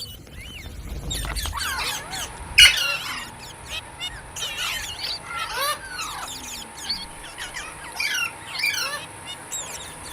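Rose-ringed parakeets (Indian ringnecks) chattering in many short, overlapping chirps and squawks, with one louder squawk about two and a half seconds in, over a steady high hiss.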